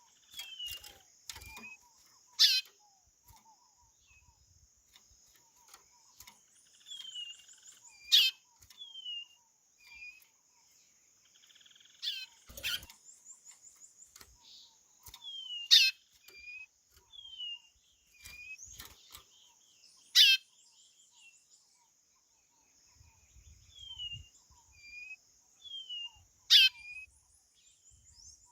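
Chorão (white-bellied seedeater) calling: short, plaintive falling whistles repeated every second or two, broken about every five seconds by a loud, sharp note sweeping steeply down in pitch. A steady high-pitched hiss runs underneath.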